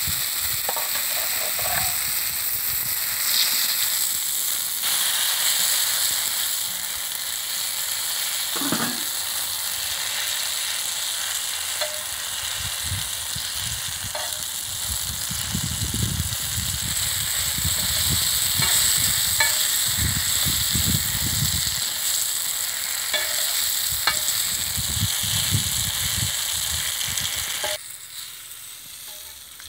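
Stuffed snake gourd pieces sizzling in oil on a flat iron tawa, a steady frying hiss with a few light clicks. The sizzle drops away abruptly near the end.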